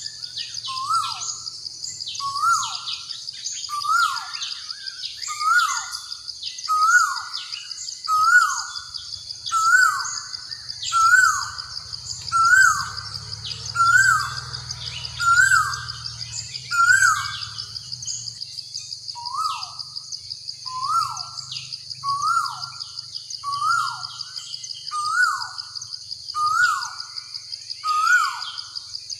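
Birdsong ambience: a bird repeats a short call that rises and then falls, about one and a half calls a second, with a brief pause about two-thirds of the way through, over a steady high-pitched trill.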